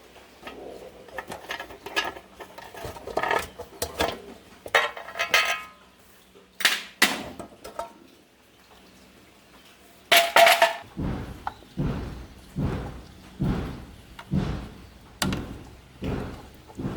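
Metal pieces clinking and clattering against each other with a short ring, then from about eleven seconds in a steady run of heavy strikes, one roughly every 0.7 seconds.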